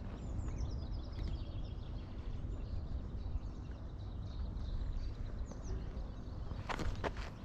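Small birds chirping and twittering, with many short high calls in the first second and again around five and a half seconds in, over a steady low rumble. A few sharp knocks near the end.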